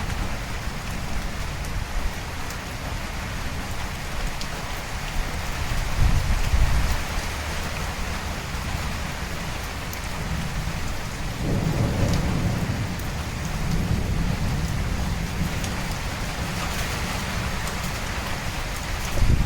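Steady heavy rain pouring onto surfaces during a thunderstorm, with low thunder rumbling, swelling about six seconds in and again around twelve seconds.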